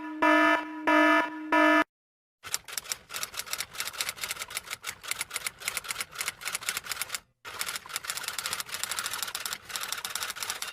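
Four short pitched beeps, then, after a brief pause, a long run of rapid, irregular key clicks as of fast typing, with one short break partway through.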